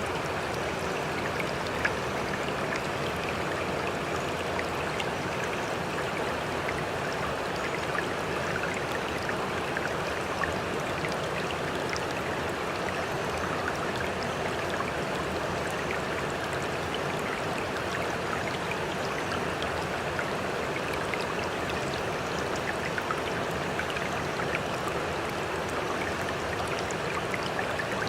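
Steady rush of sea water, dotted with many small splashes and trickles, with no rise and fall of breaking waves.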